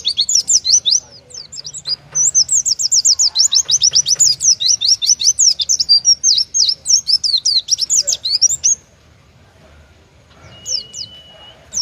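Oriental white-eye singing its rapid 'tembakan' burst: a fast, unbroken run of high sweeping notes, about seven a second, that stops about nine seconds in. A few short chirps and a brief steady whistle follow near the end.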